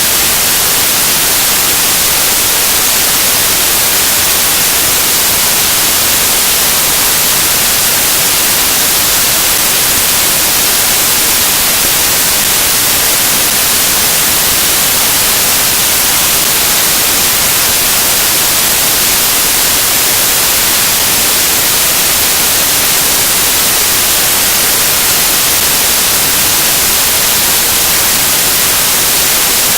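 Loud, steady static hiss like white noise, strongest in the high frequencies, with no other sound.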